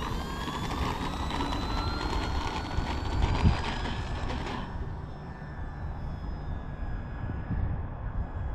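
Electric motor of an FMS 1500mm Cessna 182 RC plane whining, its pitch rising steadily as it speeds up. About five seconds in, the higher part of the whine drops away suddenly, leaving a fainter steady whine. Low wind rumble on the microphone underneath.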